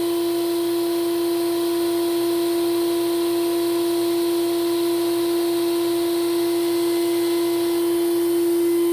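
Hoover Celebrity canister vacuum's motor running on high speed: a steady whine over a rush of air.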